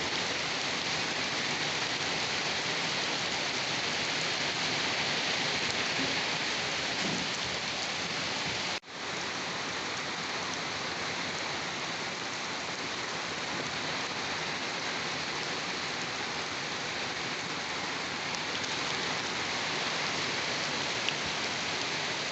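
Steady rain falling on a surface, an even hiss without a break in rhythm. About nine seconds in it cuts out for an instant and comes straight back.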